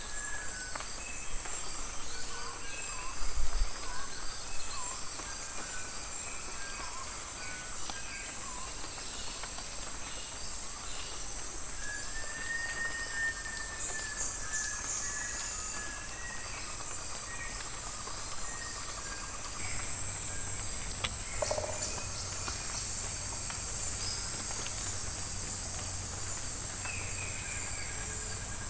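Rainforest ambience: a steady high-pitched insect drone throughout, with scattered short bird calls and whistles over it. A brief low thump comes a few seconds in.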